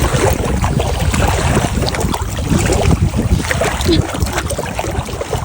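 Wind buffeting the microphone in a loud, rumbling rush, with water lapping and faint voices underneath.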